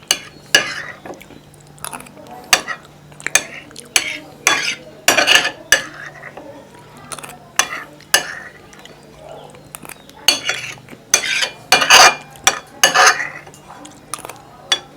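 Close-up mukbang eating sounds: wet mouthfuls of soft, sticky chera and curd sweets being chewed, with irregular sharp clinks and scrapes of a utensil against a plate. A faint steady hum runs underneath.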